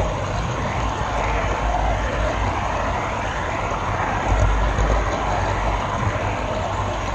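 Steady rolling whirr and rumble of a model railroad camera car running along the track, picked up by the GoPro riding on it, with the low rumble swelling a couple of times.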